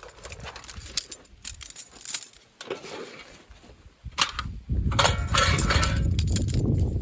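Irregular clinks and knocks, like hard objects being handled. About two-thirds of the way through, a loud, low rumble with crackle takes over and runs on.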